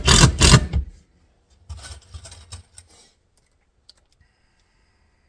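Power drill driving a wood screw into a board, a loud run of rapid clicks that stops about a second in, followed by softer handling noises.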